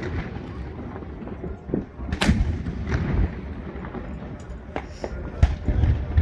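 Aerial fireworks bursting: a series of sharp booms, the loudest about two seconds in and more near the end, over a continuous low rumble.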